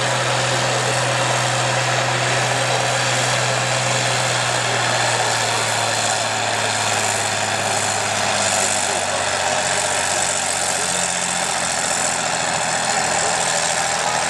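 A big pulling tractor's diesel engine idling steadily with a low hum while waiting to pull.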